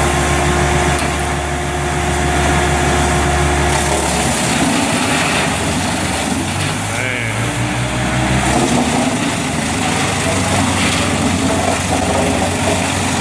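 Engine of heavy log-handling machinery running, its steady tone changing about four seconds in and again near nine seconds.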